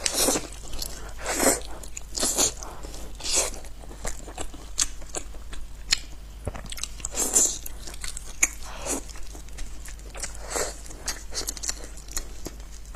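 Close-miked biting and chewing on red-braised goat ribs: a string of separate chews and bites, most about a second apart.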